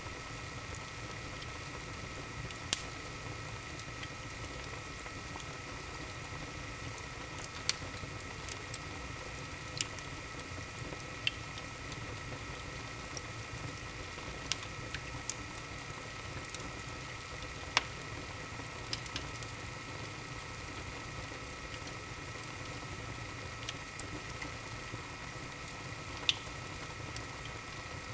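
Wood fire burning in an open fireplace, crackling steadily over a soft hiss, with a sharper pop every few seconds.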